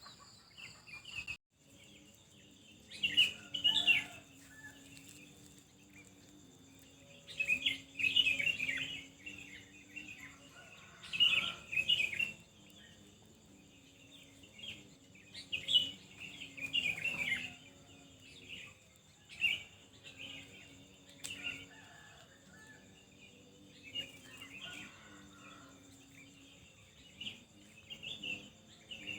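Small birds chirping in clusters of quick high notes every few seconds, over a faint steady high-pitched tone.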